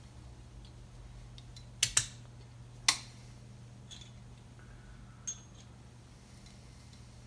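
Sharp metallic clicks of small metal parts knocking together as a piston-pin circlip installation tool is handled: three quick clicks about two seconds in, a fainter one past five seconds, over a steady low hum.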